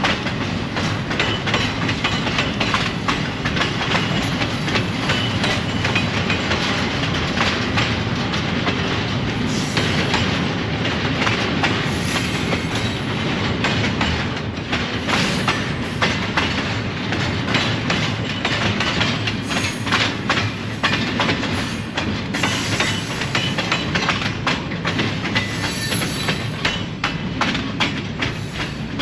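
Train rolling steadily past, its wheels clattering in a rapid, continuous run of clicks over the rails.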